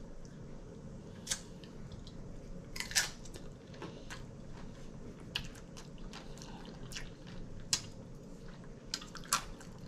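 Person chewing a mouthful of taco salad and tortilla chips close to the microphone, with scattered sharp crunches and mouth clicks, the strongest about three seconds in.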